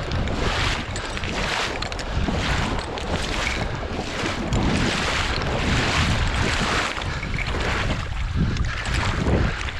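Wind buffeting the microphone with a low rumble, over water splashing in surges about once a second, like kayak paddle strokes.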